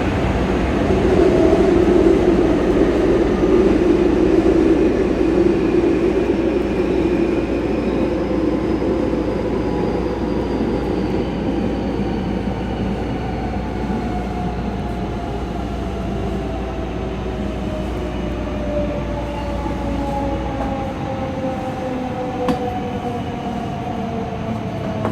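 JR West 207 series electric train running, its inverter motor whine made of two slightly out-of-step tones that slowly fall in pitch together as the train slows. The paired tones come from the inverters at the two ends of car KuMoHa 207-1037 running out of step with each other, which gives this set its odd sound. A sharp click sounds near the end.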